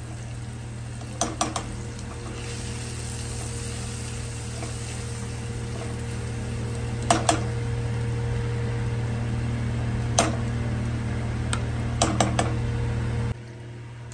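Ground onion-and-cashew paste sizzling as it goes into hot oil in a kadai, with a steady low hum underneath. A few sharp knocks of the spatula on metal come through, and the sound drops off suddenly near the end.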